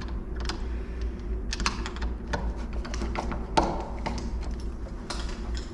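Irregular light clicks and taps of door-lock hardware being handled and its screws tightened by hand, with one sharper knock about three and a half seconds in.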